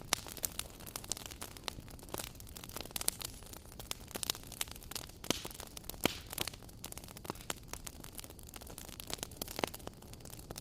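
Wood fire crackling: irregular sharp pops and snaps, several a second, over a steady hiss of burning.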